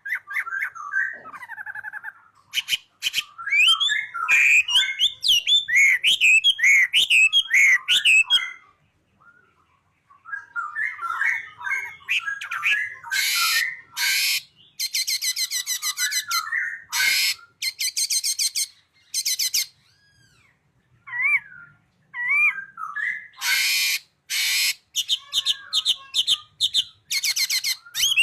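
Songbird singing a varied, loud song: quick whistled phrases and chirps mixed with harsh, buzzy rattles, with brief pauses about a third of the way in and again past two thirds.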